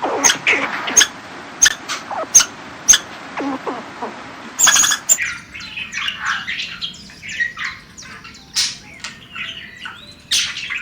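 Birds calling: short, sharp squawks in the first half, then, about five seconds in, a dense chorus of many overlapping chirps.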